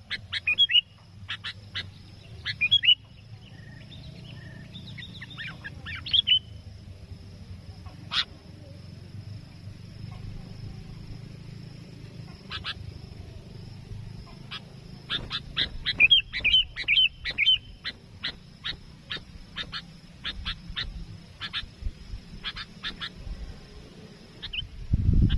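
Sooty-headed bulbul (kutilang) calling: quick bubbly phrases near the start, about six seconds in and around sixteen seconds in, then a run of short sharp chips until near the end. A steady low rumble runs underneath.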